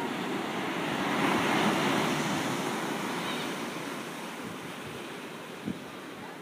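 An ocean wave breaking and washing in, a rushing surge that swells to its loudest about a second and a half in, then slowly fades.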